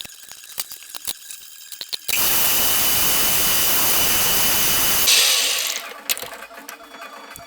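Workshop tool sounds on restoration parts: a run of light metal clicks, then about three seconds of loud steady rushing hiss that starts and stops abruptly, followed by a brief sharper hiss and more scattered clicks.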